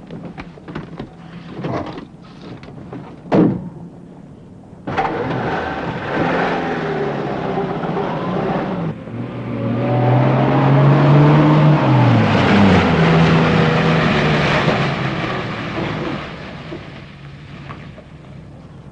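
A few knocks and clicks, then a car engine starts about five seconds in and runs loud, its pitch rising and dropping several times as it pulls away, fading near the end.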